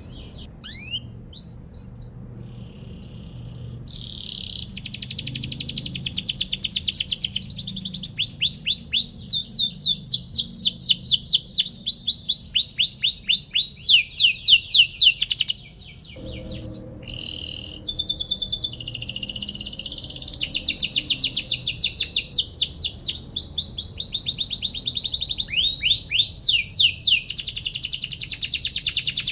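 Domestic canary singing long rolls of fast repeated chirping notes, with one short break about halfway through before it resumes.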